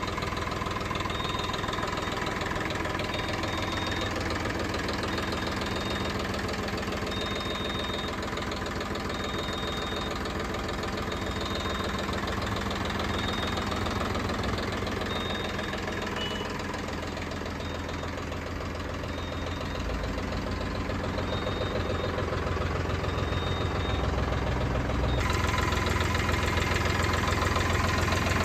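Mahindra Yuvo Tech Plus 415 DI tractor's diesel engine idling steadily with a knocking clatter. The sound gets a little louder about 25 seconds in.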